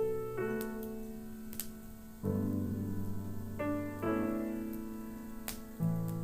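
Solo piano playing slow, sustained chords that change every second or two, with the faint crackle and pop of a wood fire behind it.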